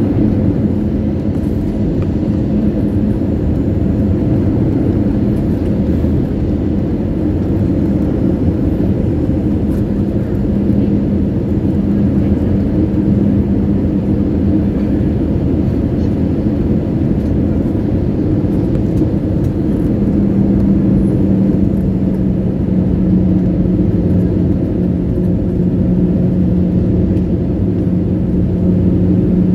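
Steady drone of a jet airliner's engines and rushing air heard from inside the cabin on the approach to landing, with a low hum that gets a little louder about twenty seconds in.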